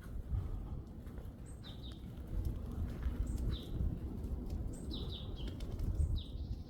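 A small bird calling repeatedly, short high chirps that drop in pitch, several in a row about a second apart. Under them runs a steady low rumble.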